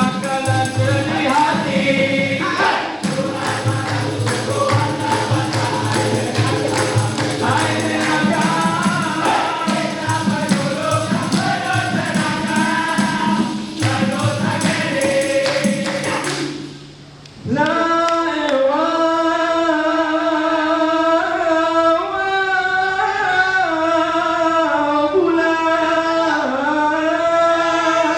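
Vocal group singing in harmony over a rhythmic percussive beat. About two-thirds of the way in the sound drops briefly, then the voices hold slow, sustained chords without the beat.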